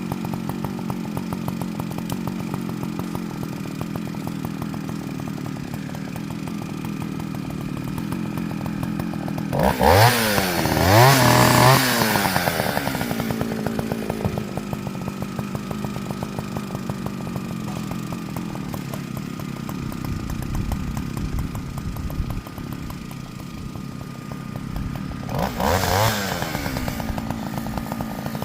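Two-stroke chainsaw idling, revved up twice in quick succession about ten seconds in before falling back to idle, then given another short blip of throttle near the end.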